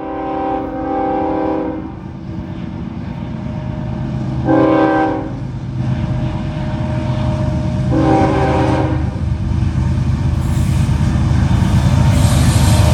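Eastbound CSX freight train's diesel locomotive sounding its horn three times, a few seconds apart, over a low rumble and rail noise that grow louder as the train approaches.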